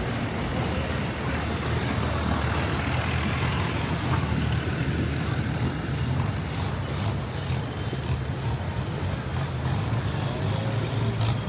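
Boat engine running steadily: a low drone under a constant rushing noise.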